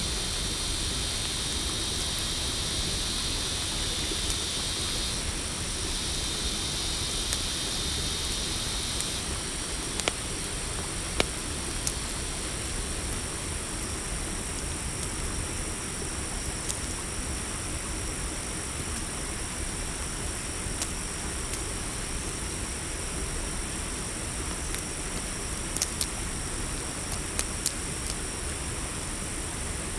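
Campfire crackling with a few sharp pops over a steady chorus of crickets and other night insects; one higher trill stops about nine seconds in.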